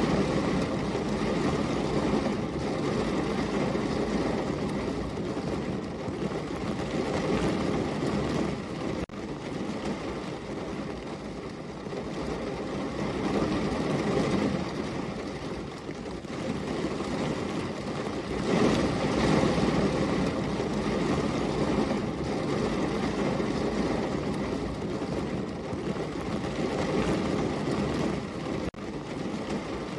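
Heavy rain falling steadily, a dense rushing hiss that swells and eases every few seconds.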